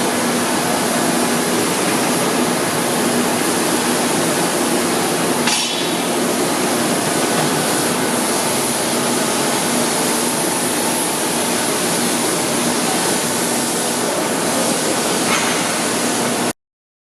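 Blanchard 22K-42 vertical rotary surface grinder running: a steady hiss with a low hum underneath, cutting off suddenly near the end.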